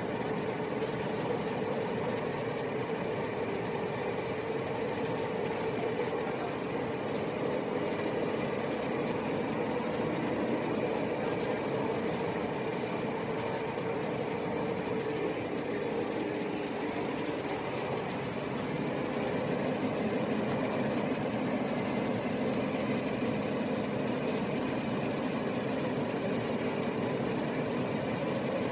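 Cabin noise of a Cercanías electric commuter train running along the line: a steady rumble of the wheels on the rails under an even hum.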